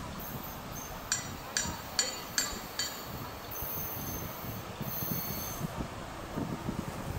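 EU07 electric locomotive approaching slowly at the head of a passenger train, a steady low rumble of wheels on rail. About a second in come five short, sharp metallic rings, roughly half a second apart.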